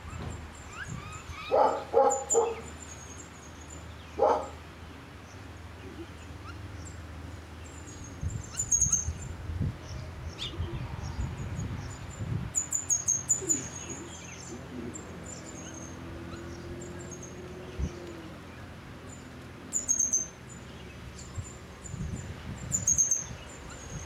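Small birds chirping outdoors, repeated high, thin chirps in short runs, with a few short, louder calls in the first few seconds.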